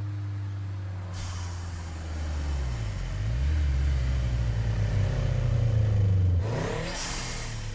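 Several car engines running and revving, with a car sweeping close past near the end.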